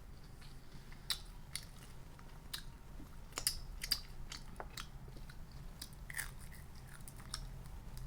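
Close-up eating sounds: a person biting and chewing food, with scattered sharp crunchy clicks and wet mouth noises. The loudest crunches come about three and a half to four seconds in.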